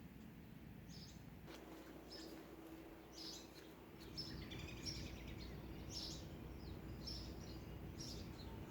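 Small birds chirping faintly in the background, many short high chirps in quick runs, over low outdoor ambient noise; a faint steady hum comes in about a second and a half in.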